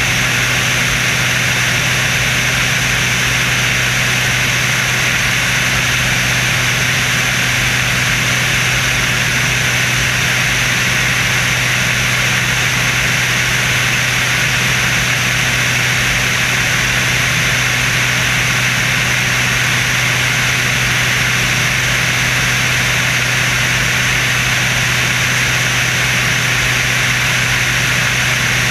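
Steady aircraft engine and rushing-air noise from the Screamin' Sasquatch biplane: a low hum under a broad hiss, holding level without change.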